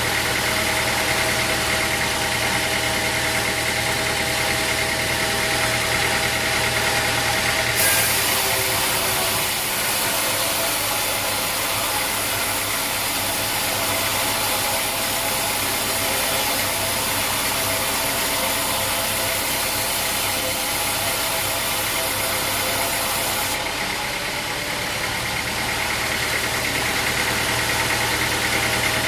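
Engine-driven sawmill running steadily. From about eight seconds in to about twenty-three, a harsh high hiss is added while the saw is cutting through the log, and then the machine returns to running steadily.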